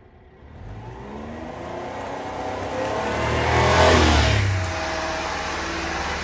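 Honda Acty mini truck's small three-cylinder engine revving, climbing in pitch and loudness for about three seconds, then dropping back to a steady idle about four and a half seconds in.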